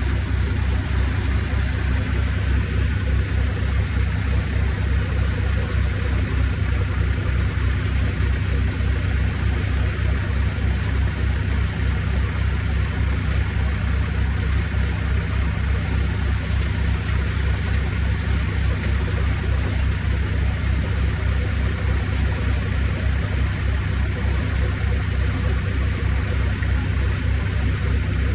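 Tractor engine running steadily at constant speed with a rapid low thudding, together with an even, rushing noise from the threshing machine it drives.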